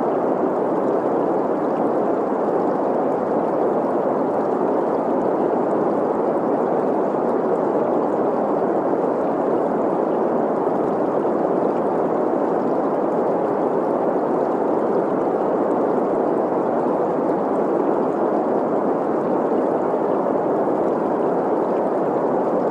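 Green noise, a steady hiss centred in the middle of the range, mixed with the flowing water of a stream, unchanging throughout.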